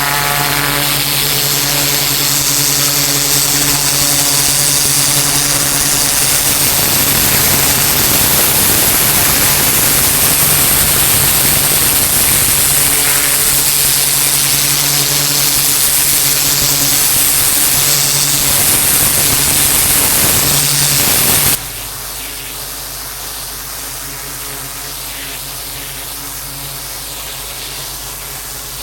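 Pressure washer running, its engine humming steadily under the loud hiss of the high-pressure water jet spraying onto paving. About 21 seconds in the sound drops abruptly to a quieter steady hiss and hum.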